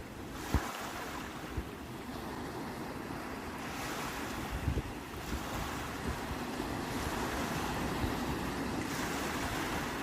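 Sea waves washing in one after another, a few seconds apart, with wind buffeting the microphone in a few low thumps.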